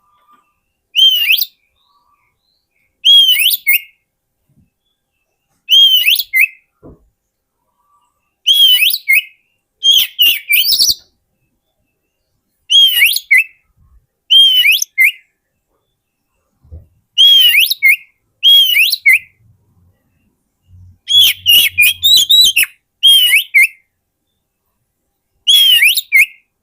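Oriental magpie-robin singing: short whistled phrases, each opening with an arched whistle that rises then falls, followed by a few quick notes. The phrases repeat about every one to three seconds with silent gaps between, sometimes two in quick succession.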